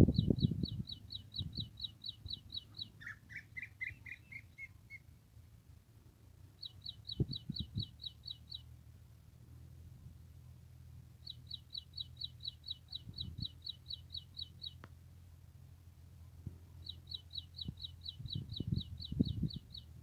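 A small songbird repeating quick, high, falling chirps, about seven a second, in four runs of roughly two seconds each. About three seconds in, a second bird answers with a short rising series of lower chirps. Low rumbling noise sits under the birdsong at the start and near the end.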